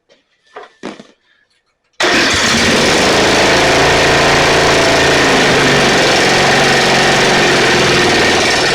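Snapper riding mower's engine comes in suddenly about two seconds in and runs loud and steady. It is running with the coil's kill wire and ground wire unhooked, which brought back the spark the safety switches had been cutting. Before that, a few faint clicks.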